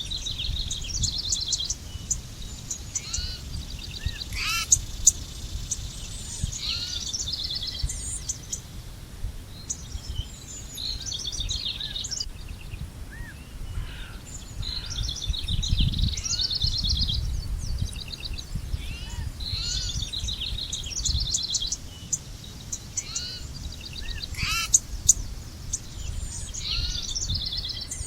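Wild birds singing: short trilled phrases and chirps recur every few seconds, over a steady low rumble.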